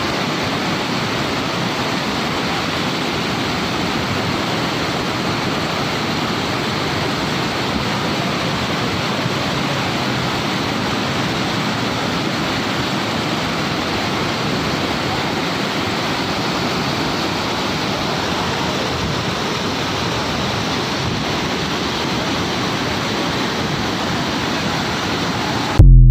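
Steady, even rushing of fast-flowing water, like a mountain stream or waterfall. It ends with a brief loud bump.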